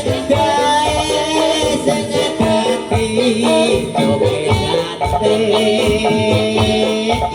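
Jaranan dangdut music playing: a steady drum rhythm under a wavering melodic line.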